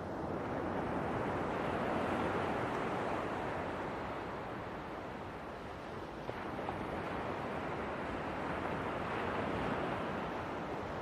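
Ocean waves washing onto a shore in a steady rush, swelling twice, about two seconds in and again near the end.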